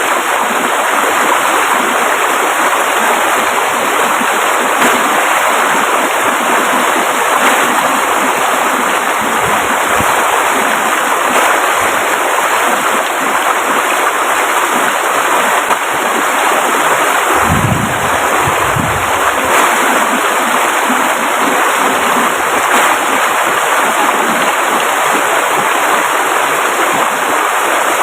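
Fast-flowing river rushing steadily, an even, dense hiss of moving water. A brief low rumble comes about two-thirds of the way through.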